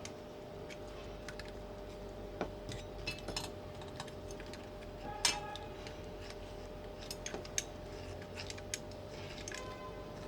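Scattered light clicks and clinks of small metal parts and tools being handled during assembly, with one louder, briefly ringing metal clink about five seconds in, over a steady background hum.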